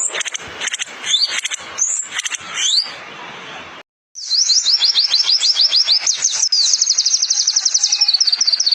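Sunbird song: first a handful of sharp, rising high chirps, then, after a brief break, a fast continuous trill of rapid, repeated high notes from a second bird.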